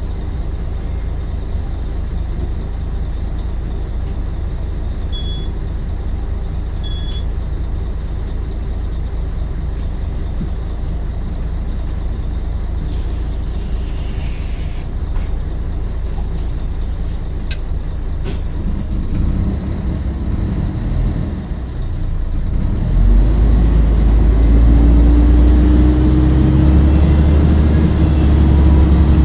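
Scania L113CRL bus's rear-mounted 11-litre six-cylinder diesel running steadily, with a short hiss about thirteen seconds in. Near the end the engine grows louder and a whine climbs slowly in pitch as the bus accelerates.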